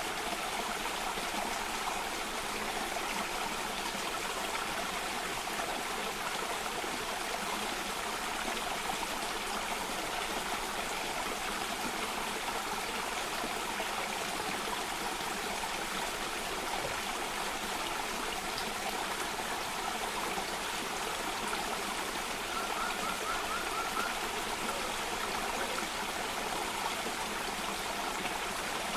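Water running steadily over rocks in a stream or small cascade, an even rushing with trickling, with no change in level. A brief faint trill sounds about three-quarters of the way through.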